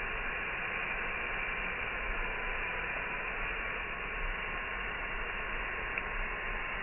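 A campfire burning with a steady, even hiss and hardly any crackle.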